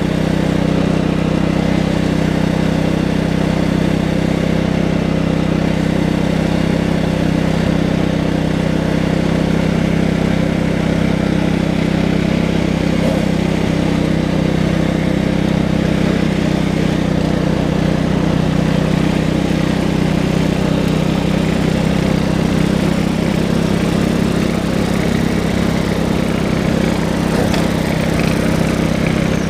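Tractor engine running at a steady, even speed throughout, with no revving.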